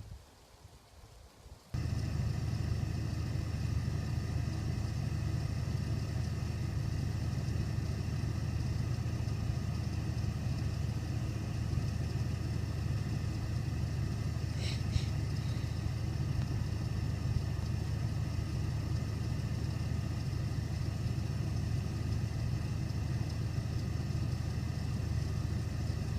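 A truck's engine running steadily, coming in abruptly about two seconds in, with a brief high chirp about halfway through.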